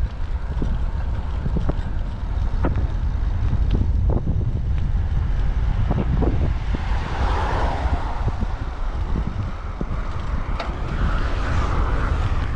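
Strong typhoon wind buffeting the microphone in a heavy, steady low rumble, with scattered sharp ticks. A rushing hiss swells about halfway through and again near the end.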